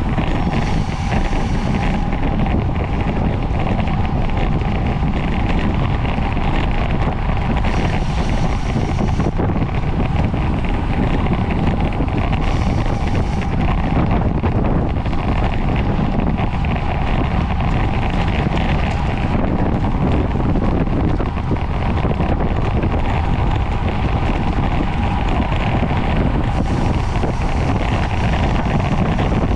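Wind rushing over the microphone of a camera carried along at racing speed in a criterium bike race, a loud steady rush with no let-up.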